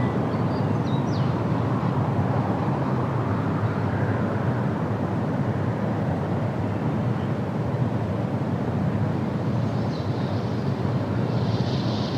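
Steady low outdoor rumble, with a few faint high chirps in the first second and a soft high hiss near the end.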